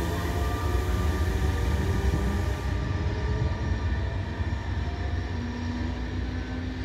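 SBB Re 460 electric locomotive and its double-deck coaches running away along the track: a steady low rail rumble with wheel noise that slowly fades as the train recedes. The higher hiss of the wheels drops away about three seconds in.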